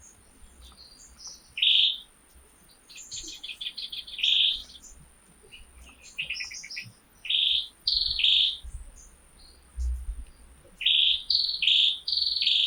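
A bird calling over and over: short, high, buzzy phrases, some broken into rapid stuttering notes, coming in groups every second or two. A faint steady high whine sits underneath.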